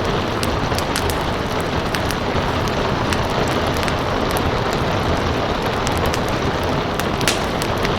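Steady rain mixed with a wood fire crackling: a continuous rushing hiss of rain with scattered sharp pops and snaps from the burning wood, one louder pop about seven seconds in.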